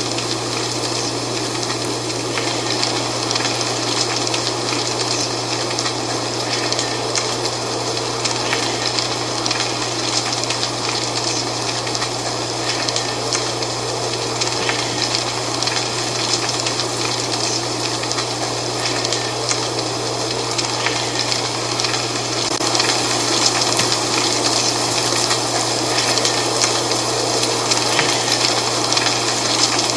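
Dry fall leaves rustling in the wind: a steady rushing with many small crackles, a little louder from about two-thirds of the way through, over a constant low hum.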